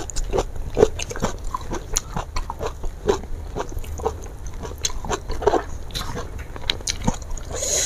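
Close-miked chewing of rice and fried fish, with many irregular wet smacks and clicks of the mouth.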